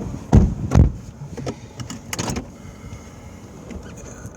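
Two heavy, low thumps about half a second apart, then a shorter knock with rustling about two seconds in, over a low steady background.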